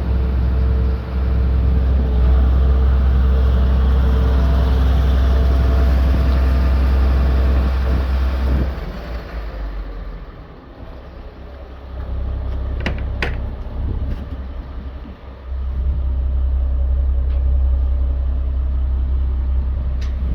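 Iveco Eurocargo 100E18 truck's diesel engine running with a strong steady low hum. The hum falls away about nine seconds in, returns, and drops briefly again after fifteen seconds, with two sharp clicks near thirteen seconds.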